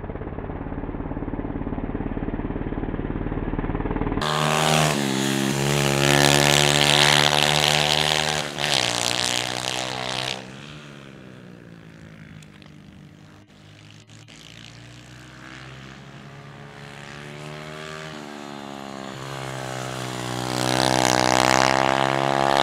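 Pit bikes racing: small motorcycle engines revving past, one bike's engine climbing in pitch and loudness, then dropping and fading as it goes by, with another bike coming up loud near the end. The first few seconds sound muffled, then cut suddenly to a clear, full engine sound.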